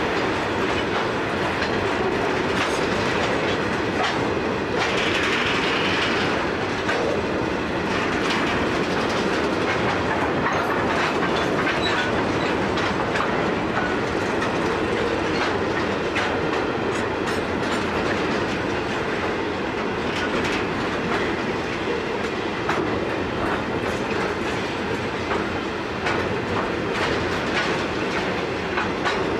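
Grain hopper wagons of a long freight train rolling past, their wheels clicking steadily over the rail joints, with a brief higher hiss about five seconds in.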